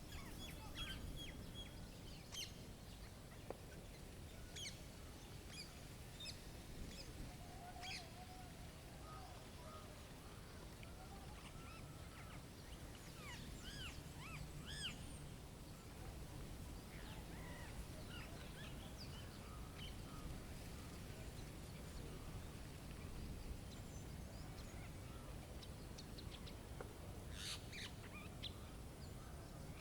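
Small songbirds chirping and calling in short, scattered notes, over a steady low rumble of wind from the snowstorm.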